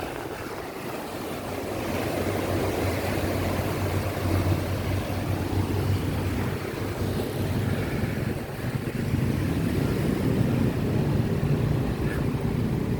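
An engine running steadily with a low hum, getting louder about two seconds in and holding there.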